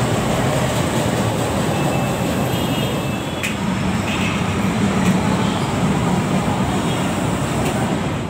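LRT-1 light rail train running along its track, a steady noise of wheels and traction motors.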